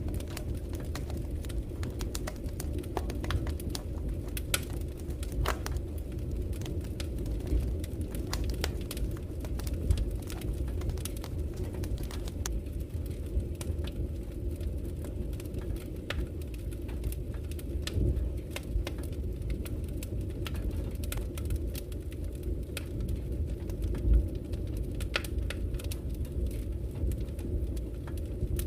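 Wood fire burning with a steady low rumble and scattered sharp crackles and pops throughout.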